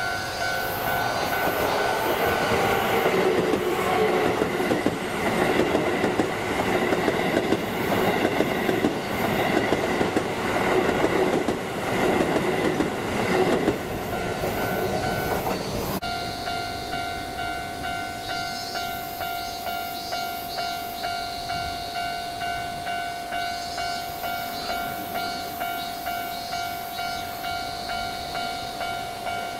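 Keisei electric commuter train passing close by on the main line, a loud rush of wheels on rail and running gear that falls away about fourteen seconds in. After that, a quieter steady ringing tone pulses about twice a second as the next train approaches.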